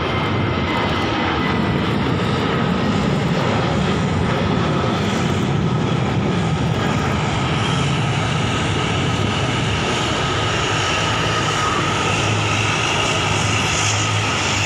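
Airliner engines running with a loud, steady rumble and a steady whine.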